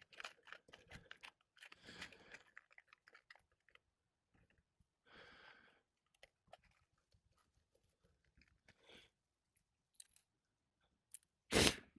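Hand tools working on brittle asphalt roof shingles: scattered small clicks, crackles and short scrapes, with one sharp knock near the end.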